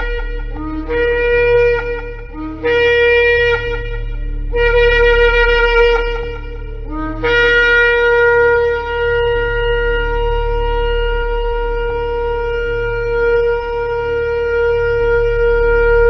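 Shofar (ram's-horn trumpet) being blown in a series of blasts, each starting on a short low note and breaking up to a higher held note. Three blasts of one to two seconds follow the end of an earlier one, then one long blast is held from about seven seconds in.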